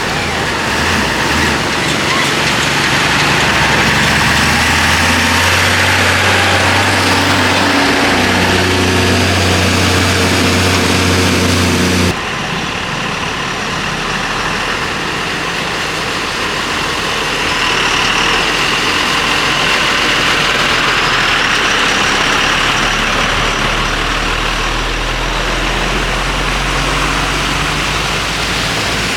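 Road vehicles driving through flood water: an engine note that changes in steps under a steady rushing wash of water noise. About twelve seconds in, the sound cuts abruptly and the engine note drops away, leaving a rushing noise over a low hum.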